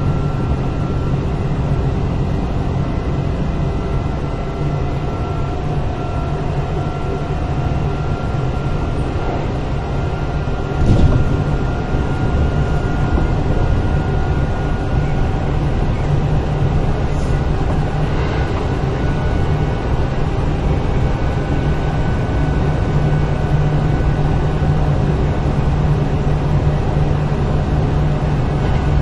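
Kintetsu 8000 series electric train (car 8079) running at steady speed, heard from inside the car: a continuous running drone with steady humming tones. A single sharp thump about eleven seconds in.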